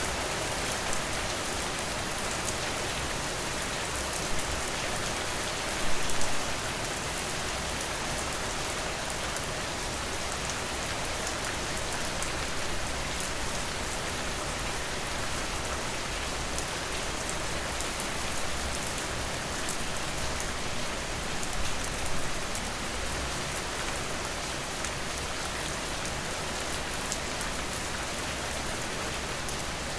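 Steady rain falling on a porch, an even hiss of drops. A few louder spikes rise out of it about six seconds in and again a little past twenty seconds.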